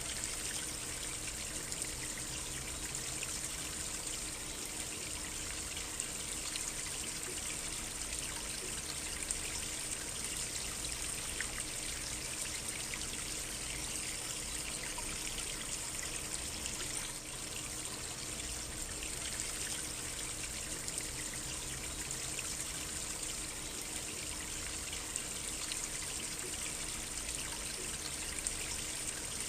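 Small stream trickling and babbling steadily.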